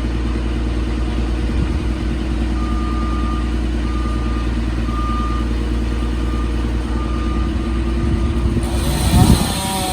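Heavy tree-service vehicle's engine running steadily, with a back-up alarm beeping about once a second for several seconds. A louder rushing noise comes in near the end.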